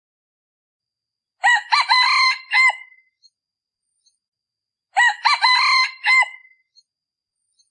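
Male decoy rooster crowing twice, two short crows about three and a half seconds apart. This is the call used to lure wild junglefowl.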